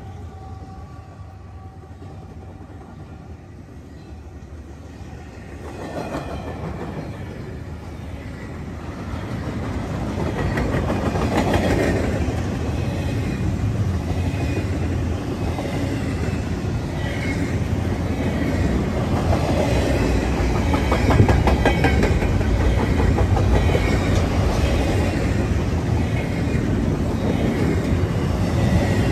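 Freight train of double-stack intermodal well cars rolling past close by, its wheels clattering steadily on the rails; it grows clearly louder about six seconds in and stays loud.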